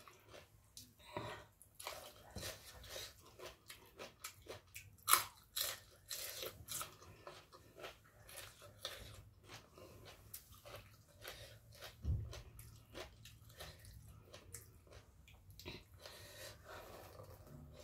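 A person chewing and crunching spicy papaya salad close to the microphone: a steady run of short crunching and wet mouth clicks, with a louder crunch about five seconds in.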